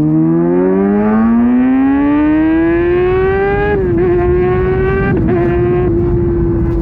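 Kawasaki Ninja ZX-6R inline-four with an SC-Project exhaust accelerating, its pitch rising steadily for about three and a half seconds. The pitch then dips briefly twice, around four and five seconds in, and holds steady.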